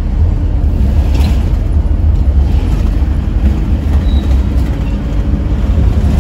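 Steady low rumble of engine and road noise from inside the cabin of a moving Toyota Innova.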